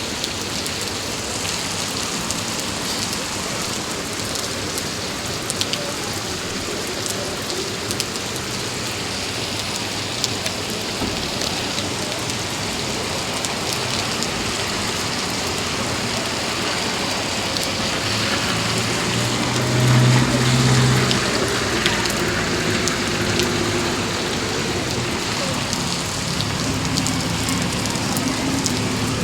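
Heavy rain falling steadily, with scattered sharp ticks of drops striking close by. A low hum swells briefly about two-thirds of the way through.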